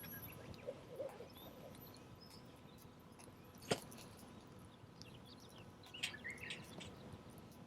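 Wood fire burning quietly, with one sharp pop about halfway through and a few small crackles. Faint bird chirps come in near the end.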